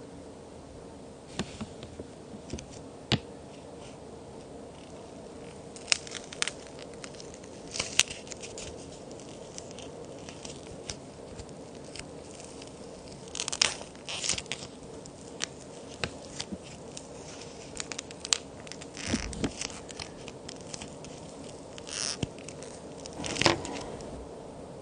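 Pretend cookies made of plaster and clay being snapped and crumbled: irregular sharp cracks and short crunching clusters over a faint steady hiss.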